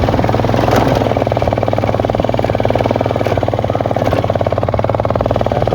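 Yamaha FZ-S V2's single-cylinder engine and exhaust running steadily under way, a fast even thumping of firing pulses.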